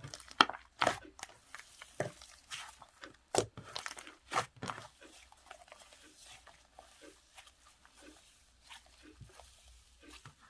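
Hands squeezing and pressing sherbet slime, giving crunchy crackling pops. The pops come thick and loud for about the first five seconds, then thin out to faint scattered ones.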